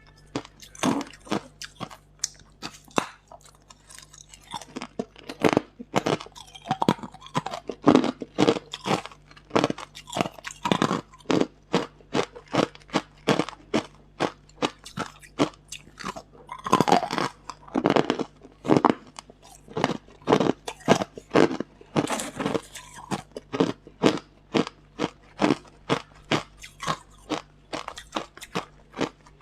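Hard ice cubes bitten and chewed close to the microphone: a steady run of sharp crunches, one or two a second, with quicker clusters of cracking.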